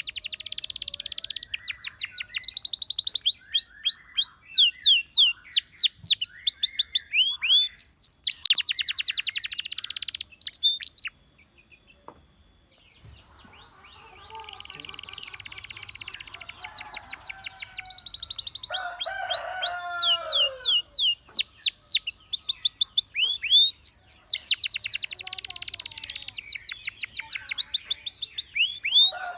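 Canary singing: fast high trills and runs of quick sweeping notes. The song breaks off about 11 seconds in for a couple of seconds, then picks up again, with some lower, rougher notes partway through.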